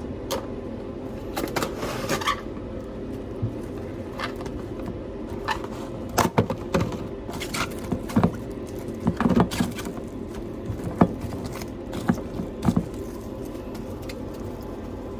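Kitchen handling sounds: scattered clicks, knocks and light clatter of dishes and utensils over a steady background hum, busiest in the second half.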